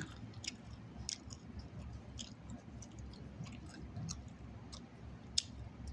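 A person chewing a mouthful of chicken salad close to the microphone, with soft wet mouth clicks and smacks scattered through, and one sharper click about five and a half seconds in.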